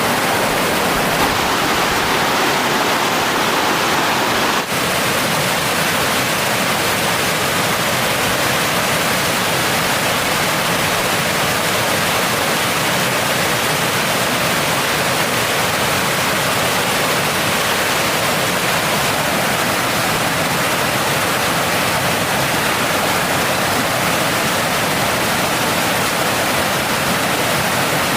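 Mountain stream water rushing, a loud, steady, even rush. It breaks off for an instant about five seconds in and carries on with a little more low rumble.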